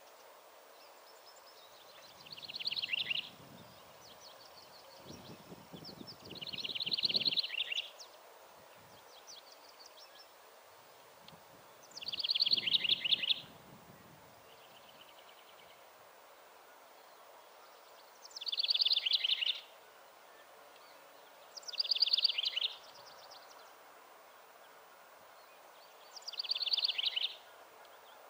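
A songbird singing a short, rapid trill about a second long, six times over, with pauses of a few seconds between, over a steady outdoor background hiss.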